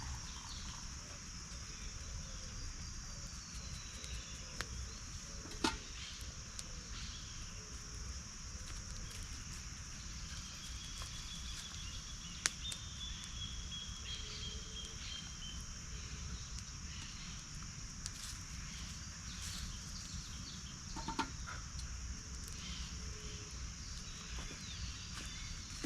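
Steady chorus of insects, crickets shrilling in one high band throughout, over a low rumble. A few faint whistled calls glide through it, and there are three sharp clicks: about six seconds in, about twelve seconds in and about twenty-one seconds in.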